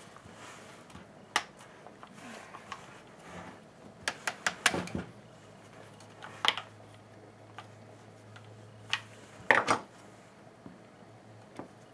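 Scattered sharp clicks and taps of small plastic and metal hedge-trimmer parts being handled and fitted together, with a quick run of clicks about four seconds in and the loudest pair of knocks near the end. A faint steady low hum runs underneath.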